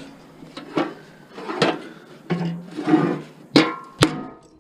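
Irregular knocks and clanks of metal barbecue parts being worked loose and handled during scrapping. A sharper, ringing metallic clang comes about three and a half seconds in.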